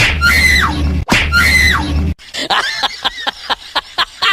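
A high-pitched falling cry over a heavy low rumble, repeated three times in identical copies. It gives way about two seconds in to a quick run of light clicks, about five a second.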